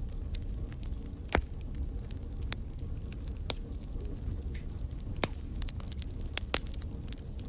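Wood fire crackling in a fireplace: a steady low rumble with frequent small snaps and a few louder pops, the loudest about a second and a half in.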